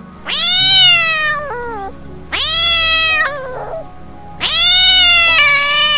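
A cat meowing: three long, drawn-out meows about two seconds apart, each rising at the start and then holding its pitch.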